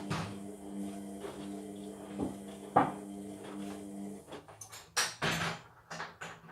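Indesit washing machine's drum motor humming steadily as the drum turns in a cotton wash, stopping about four seconds in. Several knocks and clunks come from the drum, the loudest near the middle and just after the hum stops.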